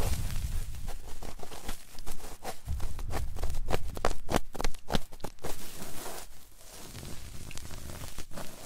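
Close-up ASMR trigger sounds on a 3Dio binaural microphone: rustling and crackling with low handling bumps and a quick run of sharp taps and clicks, getting quieter about six seconds in.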